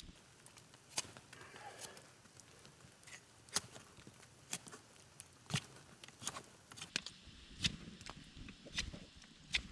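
Campfire crackling, with sharp irregular pops about once or twice a second.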